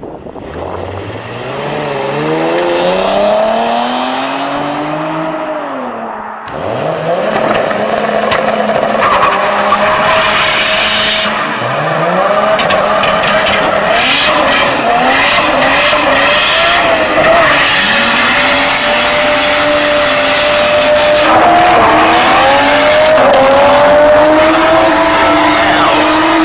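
Car engine revving hard, its pitch climbing and dropping again and again and then held high near the end, with tyres spinning and squealing: a burnout.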